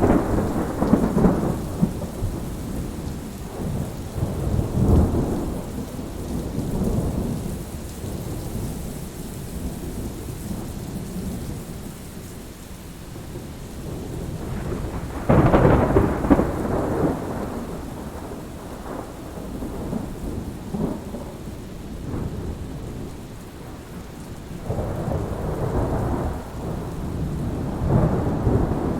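Thunderstorm: steady rain with rolls of thunder coming and going, the loudest a sharp clap about halfway through, and another long roll near the end.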